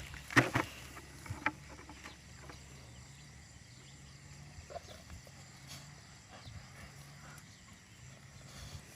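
Dog digging in soil: scattered scratching and scraping of paws in dirt, with a few sharp louder strikes about half a second and a second and a half in.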